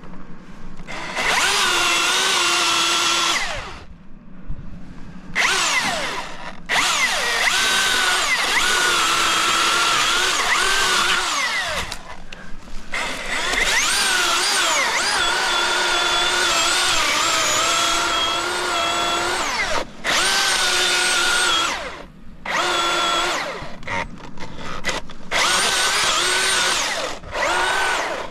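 Milwaukee battery-powered chainsaw running in repeated bursts as it cuts timber: a high electric-motor whine, each run a few seconds long, with its pitch sagging and recovering as the chain loads in the wood, and short pauses between runs.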